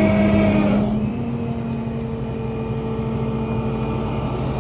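Flatbed tow truck's engine running steadily. About a second in, a higher hiss drops away and the sound gets a little quieter.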